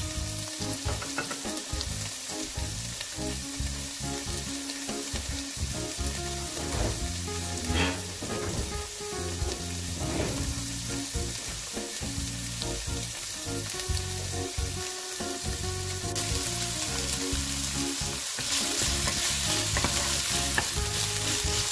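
Chicken, carrots and onion sizzling in oil in a nonstick frying pan, stirred at times with a wooden spatula. The sizzle grows louder over the last few seconds.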